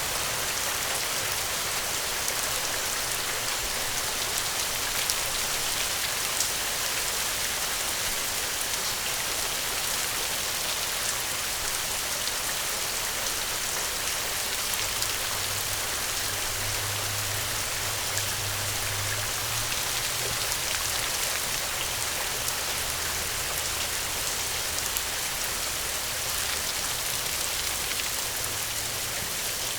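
Steady heavy rain falling on a surface, a dense even hiss of drops, with a faint low rumble rising and fading in the middle.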